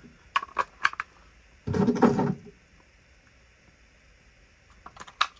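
Sharp plastic clicks and knocks as batteries are fitted into a vintage RC car's battery compartment, with a louder rustling handling noise about two seconds in and a few more clicks near the end.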